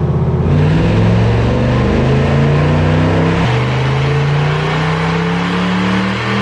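Supercharged Toyota off-road truck engine under full throttle on a chassis dyno, revs climbing steadily through a power pull. The pitch dips once about three and a half seconds in, then keeps rising.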